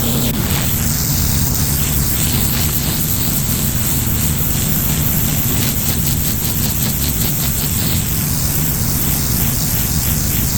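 Gas-engine pressure washer running steadily, with the continuous hiss of high-pressure water spraying onto concrete.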